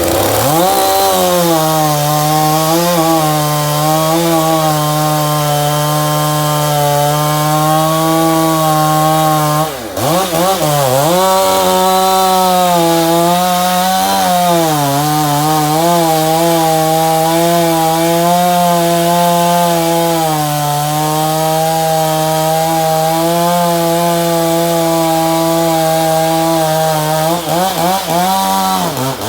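Stihl MS 461 two-stroke chainsaw with a custom billet aluminum muffler cap, running at full throttle under load as it cuts wood. The engine speed drops briefly about ten seconds in and picks up again, then rises and wavers near the end.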